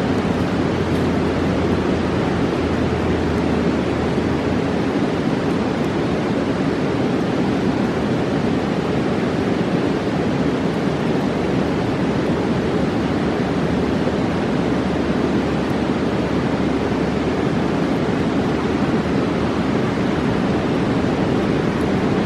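Steady, loud rush of a roaring mountain river.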